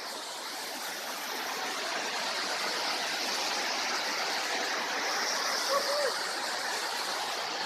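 Waterfall running steadily, an even rush of fairly heavy falling water.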